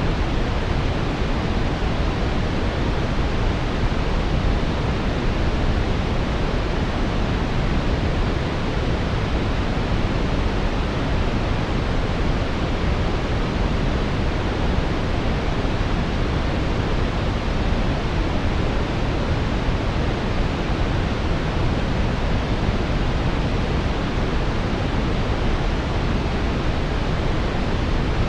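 Steady synthetic brown noise: an even, unbroken rushing hiss weighted toward the deep end, fading off in the highs.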